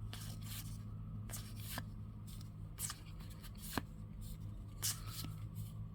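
Topps baseball trading cards being handled and flipped through by hand, the card stock sliding and ticking against itself in scattered soft brushes, over a steady low hum.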